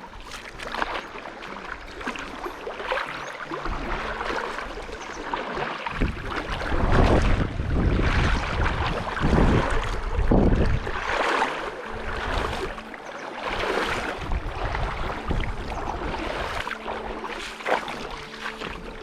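Legs wading through a cold river, the water sloshing and splashing in uneven surges with each step. Wind buffets the microphone heavily partway through.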